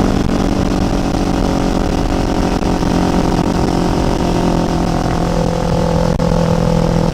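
Kawasaki Ninja 500's parallel-twin engine running steadily in second gear under light load on an uphill climb, its pitch holding nearly constant.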